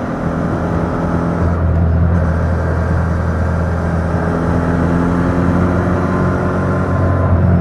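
Yamaha MT-07's parallel-twin engine running under way through its stock exhaust, held at a fairly steady pitch that shifts slightly up and down as the throttle changes.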